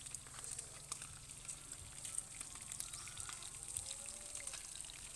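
Fish frying in hot oil in a pan: a steady sizzle with many small scattered crackles and pops.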